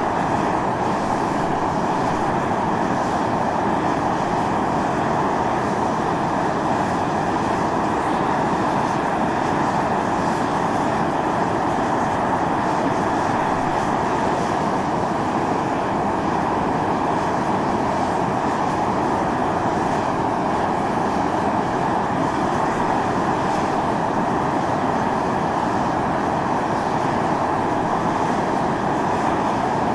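Volcanic fumarole vents on Mt. Io (Atosanupuri) venting steam and volcanic gas under pressure: a steady, loud, unbroken hissing rush.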